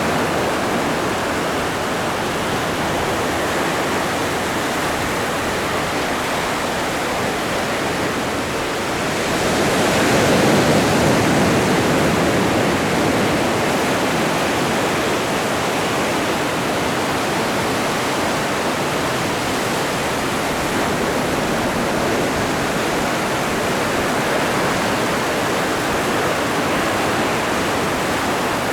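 Atlantic Ocean surf washing steadily, with one wave breaking and swelling louder about ten seconds in.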